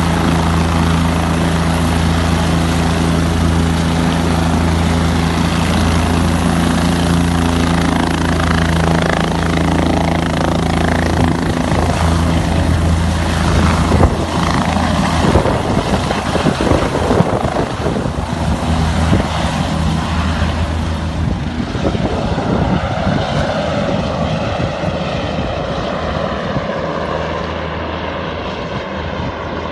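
Helicopter with its engine and rotor running: steady at first, then choppier and louder through the middle, fading away over the last several seconds as it moves off.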